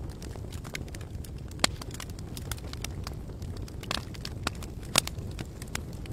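Campfire crackling, with sharp pops scattered over a steady low rumble; the loudest pop comes about five seconds in.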